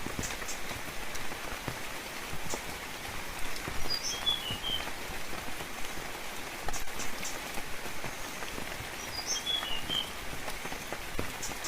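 Steady rainfall with scattered drips. A bird gives a short, high chirping call twice, about four and nine seconds in.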